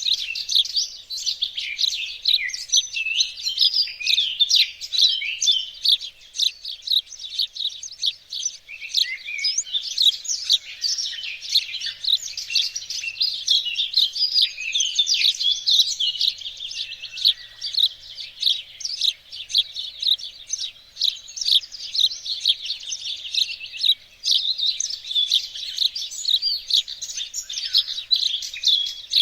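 Songbirds chirping and singing in a dense, unbroken chorus of quick high chirps and trills from several birds at once.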